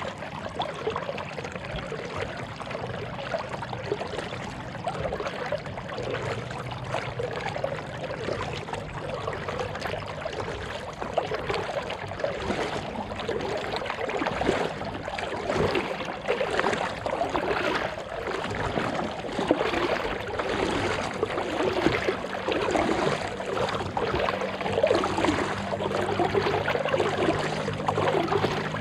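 Water splashing and trickling steadily around a kayak out on the water, in irregular small splashes.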